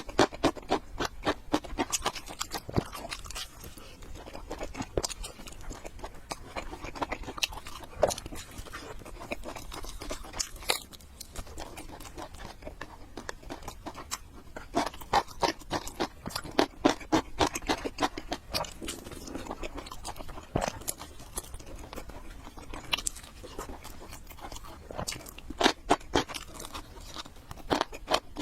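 A person chewing food close to the microphone: a rapid run of wet clicks and crunches in bouts, with short pauses between them.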